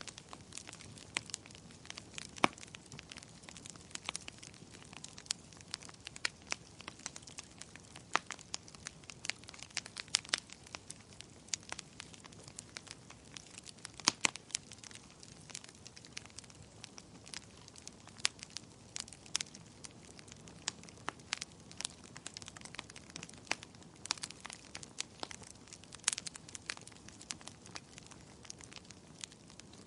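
Fire crackling in a fireplace: irregular sharp pops and snaps, several a second, over a soft steady hiss, with a few louder pops.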